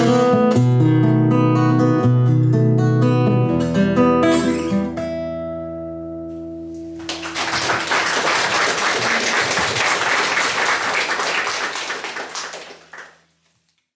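Acoustic guitar playing the closing bars of a song, ending on a chord that rings out and fades. About seven seconds in, an audience breaks into applause that lasts some six seconds and dies away just before the end.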